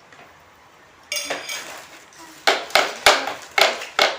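A spoon clinking against a dish of food while eating. There is one ringing clink about a second in, then a quick run of clinks and scrapes, about three a second.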